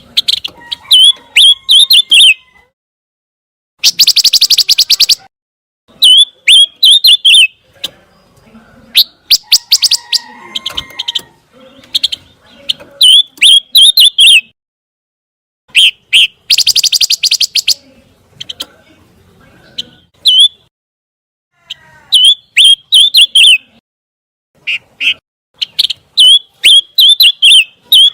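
A pancawarna songbird singing in bursts of quick, high chirping phrases, broken by several rapid rattling trills lasting a second or two each and short pauses between bouts.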